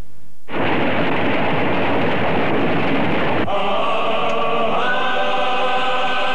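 A film soundtrack. A steady rushing rumble of a train running starts suddenly about half a second in. About three seconds later, held voice-like tones, like a choir, join it and step up in pitch a second after that.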